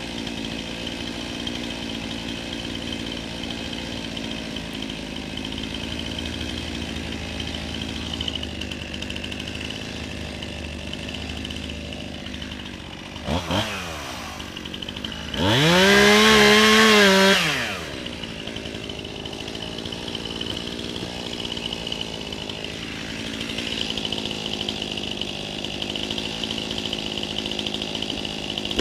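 Chainsaw idling. About 13 seconds in it gets a quick blip of the throttle, then it is run up to high speed for about two seconds, the loudest part, before dropping back to idle.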